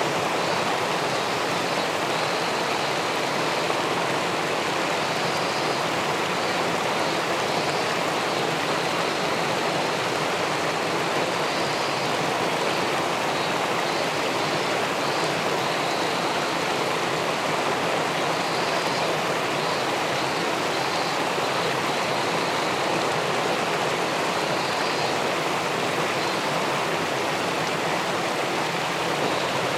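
Steady rushing of river water spilling over a small weir into the pool below, an even, unbroken sound.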